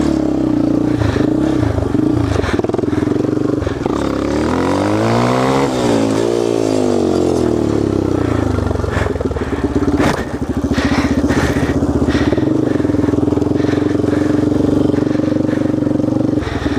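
Dirt bike engine revving, its pitch sweeping up and back down about four to eight seconds in as the bike rides past. Under it another engine runs at a steady idle, which is heard on its own for the rest.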